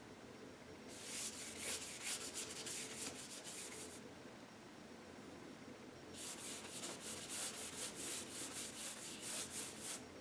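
Paintbrush scrubbing acrylic paint in quick back-and-forth strokes, in two runs of a few seconds each, starting about a second in and again about six seconds in.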